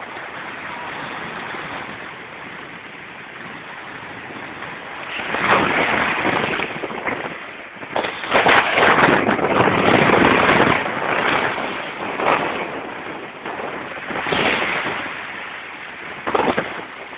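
Sea waves breaking and washing up the beach, a steady rush that swells into louder surges about five seconds in, for several seconds from about eight seconds in, and twice more near the end.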